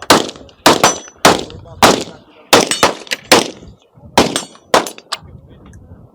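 A rapid, irregular string of gunshots, about ten in five seconds, fired in quick pairs and singles with a thin high ring after several of them. The firing stops near the end.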